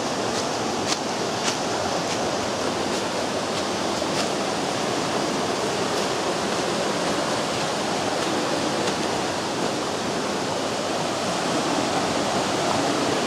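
Steady rushing of a river running through a rocky canyon, with a few faint clicks in the first couple of seconds.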